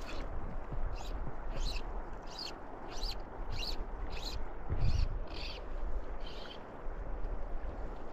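A bird calling a short, high call over and over, about one and a half calls a second, some ten times, then a pause and one more call near the end. Underneath is a steady low rumble, with a brief low thump about five seconds in.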